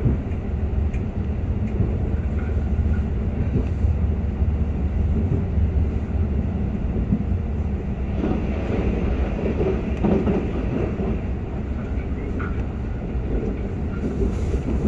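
Passenger train running along the track, heard from inside the carriage: a steady low rumble with faint scattered knocks from the wheels.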